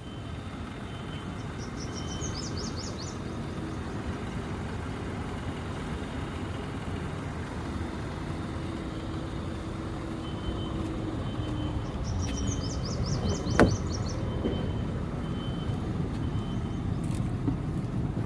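Tata Tiago running, with a steady low road and engine rumble. Two short bursts of rapid high squeaks come early and again about two-thirds in, with one sharp click between them; the car has covered about 60,000 km.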